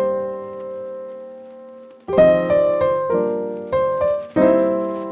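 Piano music: a chord held and fading for about two seconds, then a run of freshly struck chords.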